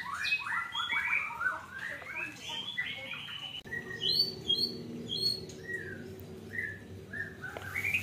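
Small birds chirping in dense, quick runs of notes, then, after a sudden break a few seconds in, sparser clear whistled notes.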